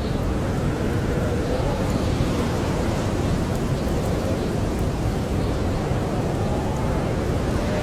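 Blizzard wind blowing steadily, with a low howl that wavers up and down, and a few faint crackles from a wood fire.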